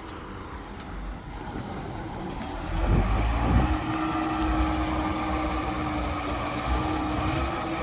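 Heavy diesel vehicle engine running. It grows louder about three seconds in, as if under load, then holds a steady note.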